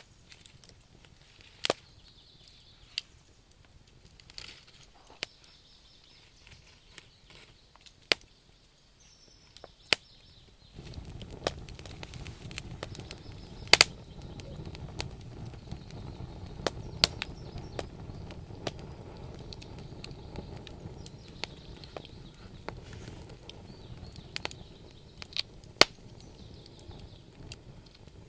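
Wood campfire crackling, with sharp pops of burning logs coming at irregular intervals. About eleven seconds in, a steady low rushing sound comes in beneath the pops and continues.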